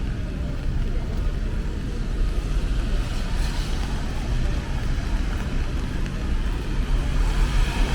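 City street ambience: a steady low rumble of road traffic with a faint hiss above it.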